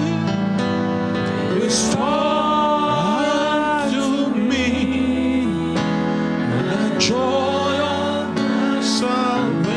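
Gospel worship song: a voice sings long, sliding held lines over sustained keyboard chords, with a few light cymbal strokes.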